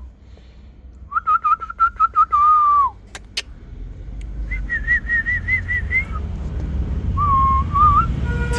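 Someone whistling three short warbling phrases, each at a different pitch: the middle one higher, the last one lower. From about halfway in, a low vehicle rumble grows steadily louder beneath it.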